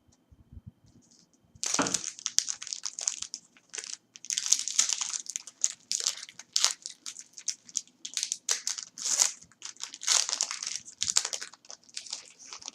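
Crinkling and tearing of a trading-card pack's foil wrapper being handled and ripped open, an irregular run of crackles starting about one and a half seconds in.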